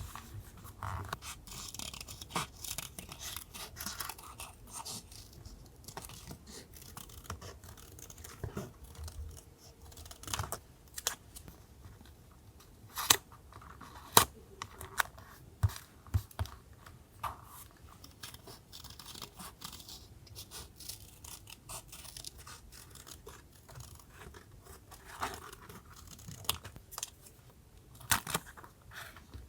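Paper and stickers being handled on a journal page: rustling, light scratching and scattered small clicks, with two sharper taps about halfway through.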